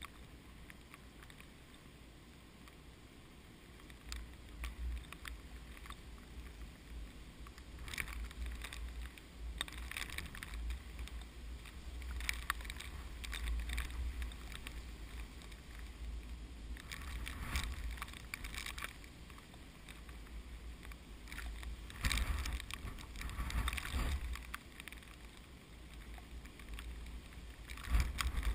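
Strong typhoon wind gusting through a rice field, rising and falling in surges. A low rumble of wind buffets the microphone, and the swaying rice rustles with a hissing, crackling sound in the stronger gusts.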